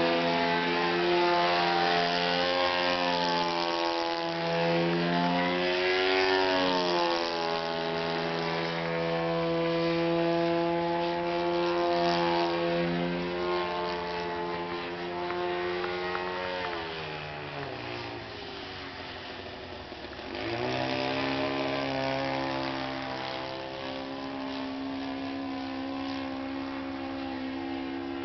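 Radio-control model airplane's .46-size glow engine and propeller running in flight. The pitch wavers as the plane manoeuvres, sinks low about two-thirds of the way through, then comes back up sharply.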